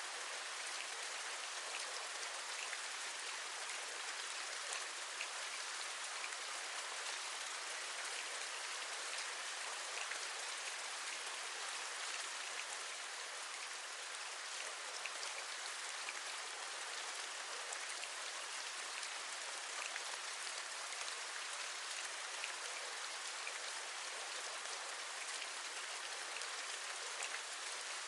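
Steady rain, a constant patter with many small drops ticking through it.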